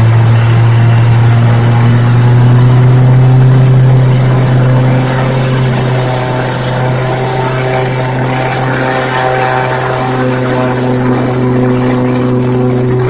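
Cessna Caravan's Pratt & Whitney PT6A turboprop running: a steady, loud propeller drone with a high turbine whine above it.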